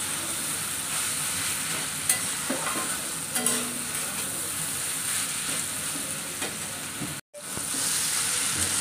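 Chopped raw papaya sizzling as it fries in a kadhai, with a spatula stirring and scraping it around the pan and a few sharper scrapes. The sound cuts out for a moment about seven seconds in.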